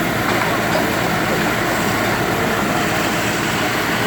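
Heavy demolition machinery running: a steady engine drone mixed with a constant noisy rumble, with no distinct crashes or impacts.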